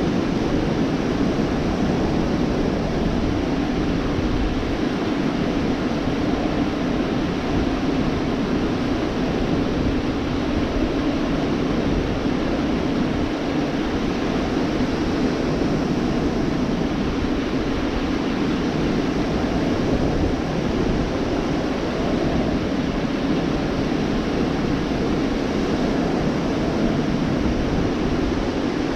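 Gulf of Mexico surf breaking on the beach: a steady, unbroken rush of waves with no separate crashes standing out.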